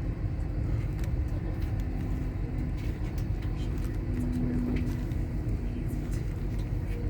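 Steady low rumble of an LNER Azuma train running, heard from inside the passenger coach, with faint steady hums and a few light ticks.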